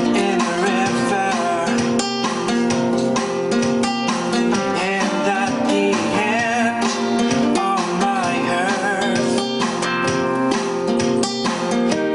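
Music led by a plucked and strummed acoustic guitar, playing steadily throughout.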